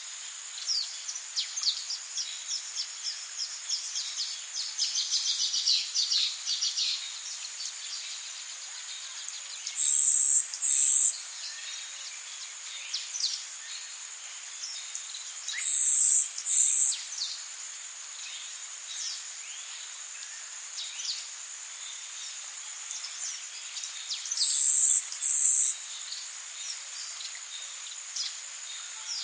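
Tropical forest ambience: a steady high insect drone, with a rapid series of short bird chirps through the first several seconds and scattered chirps after. Three times, roughly every seven to nine seconds, a loud high buzzing call comes in two quick pulses.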